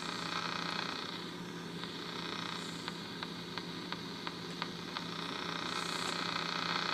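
Grundig G5 portable shortwave radio, tuned to no station, giving out static hiss over a steady hum, with a run of sharp ticks about three a second: interference from a cell phone held close to it. The hiss grows louder near the end.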